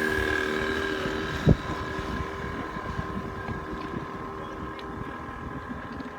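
A steady engine hum holding several fixed tones, with wind noise on the microphone. A single thump comes about a second and a half in.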